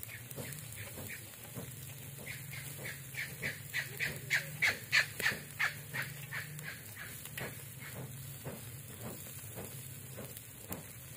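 A bird calling in a quick series of short repeated notes, about three or four a second, swelling louder and then fading over a few seconds. Under it runs a low steady hum that stops about two-thirds of the way through.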